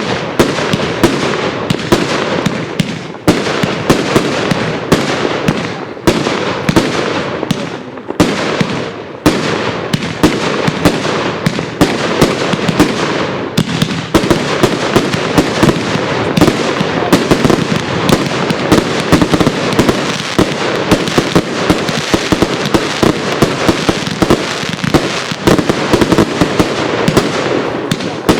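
Garden of Eden 240-shot fireworks cake firing: a rapid, unbroken stream of shots and bursts, several a second.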